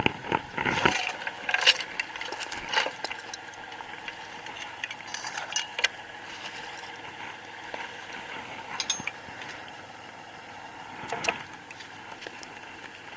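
Kubota L3560 tractor's diesel engine idling, with loose chain rattling and metal clanks and knocks, a cluster of them in the first few seconds and another near the end.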